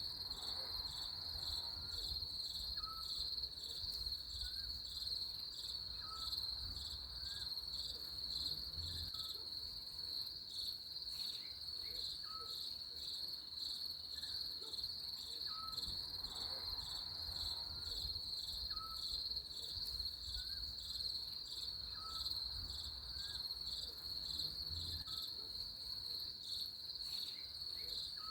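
A steady chorus of crickets trilling, with short faint chirps about once a second beneath it and a low rumble.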